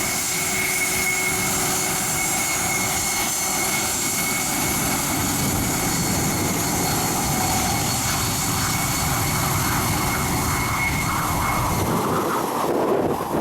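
Airplane engines running with a steady high-pitched whine over a rushing noise. The whine cuts off suddenly about twelve seconds in, leaving wind on the microphone.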